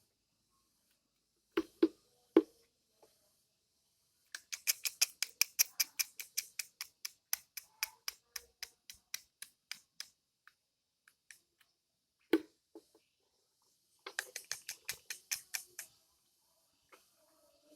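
Kingfisher chick begging, a rapid series of short, sharp, high-pitched calls in two bouts, with a few dull knocks between them.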